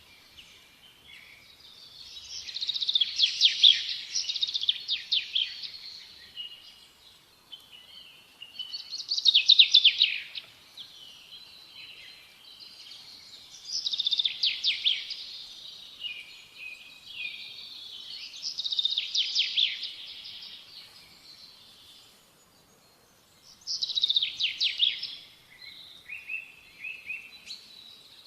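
A small songbird singing in repeated phrases of rapid, trilled notes, each phrase lasting one and a half to three seconds and coming about every four to five seconds, with softer twittering in between.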